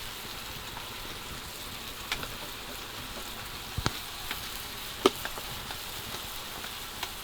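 Steady sizzling hiss of food frying in a pan, with a few short light clicks.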